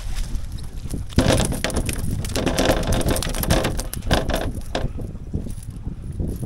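Irregular knocking and clattering on a small fishing boat, many sharp knocks close together from about a second in, over wind noise, as a hooked fish is brought in and landed.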